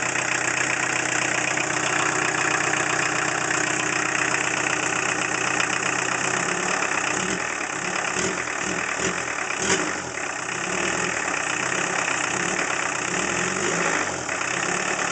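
VW T3's diesel engine running with no exhaust fitted, so it is unmuffled and loud, with a knocking diesel clatter. It idles steadily at first, then from about halfway the note becomes uneven and shifting, with a sharp crack near the middle.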